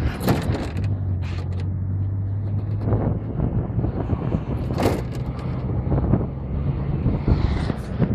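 A machine's engine running with a steady low hum, with creaking and clanking of moving metal parts and one louder knock about five seconds in.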